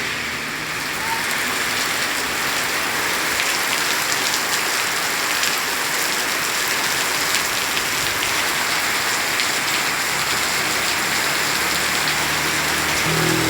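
Heavy rain falling steadily, a dense even hiss of many drops. A low hum starts near the end.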